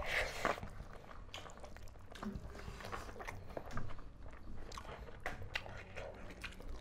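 Close-up eating sounds: two people chewing and smacking mouthfuls of pork curry and rice eaten by hand, with many small irregular wet mouth clicks.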